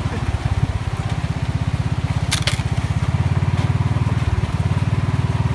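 Vehicle engine idling with a rapid, even low pulse, with two sharp clicks about two and a half seconds in.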